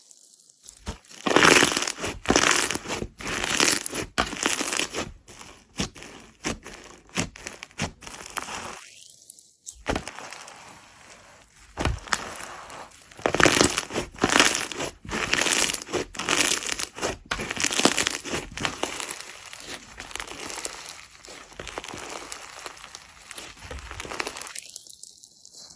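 Slime being squeezed and pressed by hand, giving dense, irregular crackles and pops, with a couple of brief pauses.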